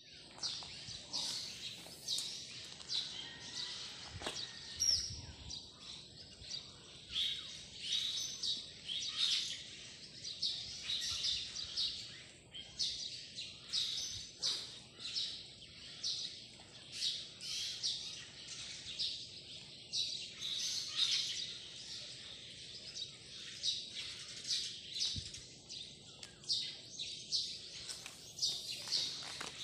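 Birds chirping, a dense run of short high calls several times a second that goes on without a break.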